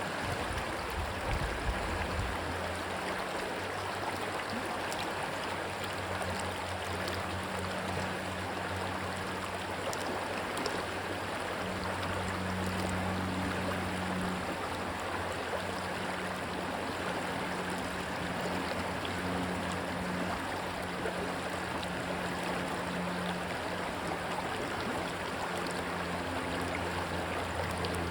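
Rushing stream water, a steady wash of noise, with a low steady hum underneath.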